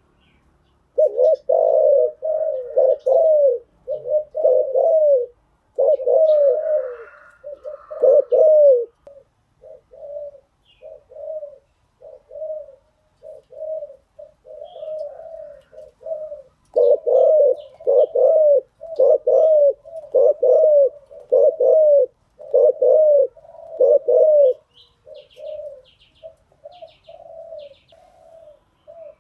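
Spotted dove cooing over and over in quick phrases of repeated coos, a lure call used to draw and train wild-caught doves; the phrases turn softer for a while midway, then loud again. Faint high chirps from other small birds come in near the end.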